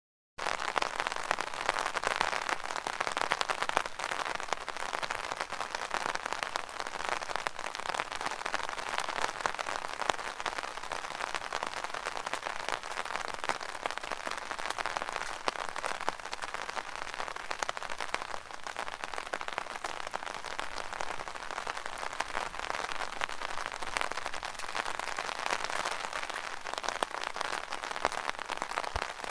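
Rain falling on an umbrella: a steady, dense hiss of countless small drop hits. It cuts in abruptly about half a second in, out of silence.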